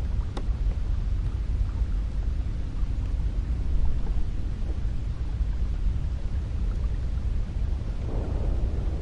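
Cold wind blowing steadily as a deep, low rumble, with a gust swelling near the end.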